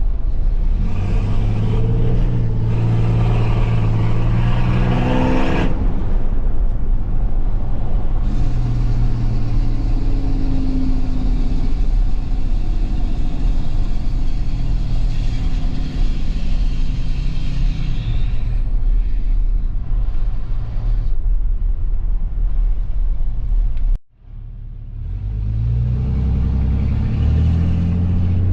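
Cummins diesel pickup engine heard while driving, pulling up in revs and then dropping back as it shifts, twice, with a steady hiss above it. Near the end the sound cuts out for a moment and the engine picks up again.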